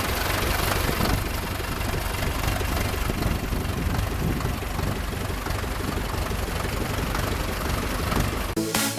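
Ursus C-4011 tractor's diesel engine running steadily while ploughing. Electronic music cuts in near the end.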